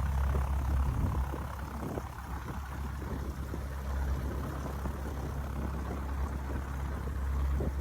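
Engine and propeller of a single-engine light aircraft, a 1971 Cessna 150L with a 160 hp conversion, running steadily as a low, even drone.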